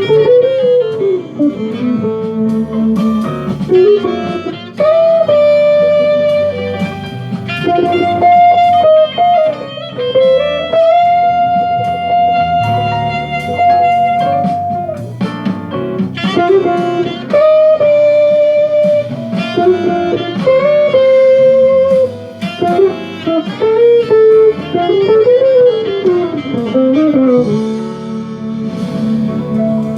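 Jazz melody played on electric guitar over chords, with long held notes and sliding, bent pitches, settling onto a sustained chord near the end.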